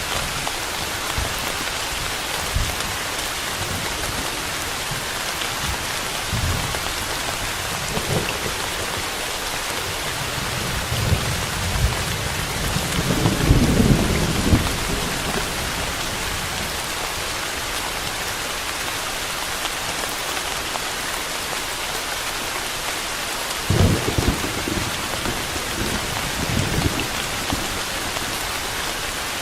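Steady rain falling hard, with low rolls of thunder: a longer rumble about halfway through and shorter ones near the end.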